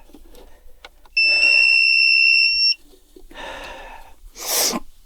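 A single long electronic beep, a steady high tone held for about one and a half seconds starting about a second in, with fainter rustling of handling before and after it.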